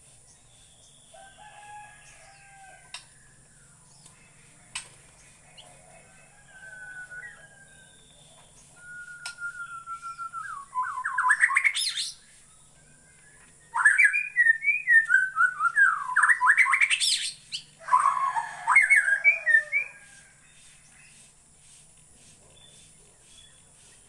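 Bornean white-rumped shama (murai batu) singing: soft, scattered whistled notes at first, then from about nine seconds in loud, varied phrases of rapid whistles and sweeping trills that run until about twenty seconds in.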